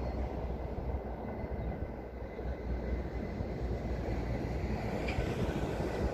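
Passing train, a steady low rumble with a faint, steady high whine over it.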